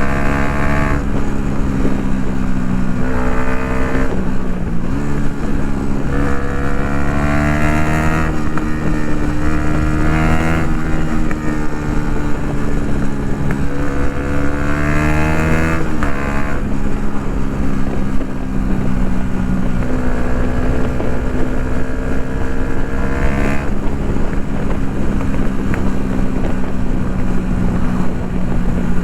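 Yamaha MT-125's single-cylinder four-stroke engine through an Akrapovic full exhaust while riding, rising in pitch under acceleration in repeated stretches every few seconds, with steadier running between them. Wind noise on the microphone underneath.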